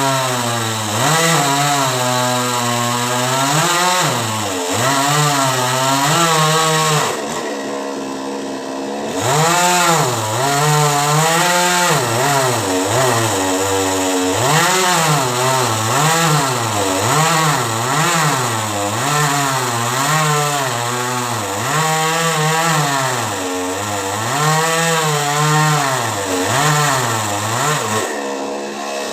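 Two-stroke chainsaw cutting into a coconut palm trunk, its engine pitch rising and falling again and again as the saw works under load. It eases off briefly about a third of the way in, then carries on cutting.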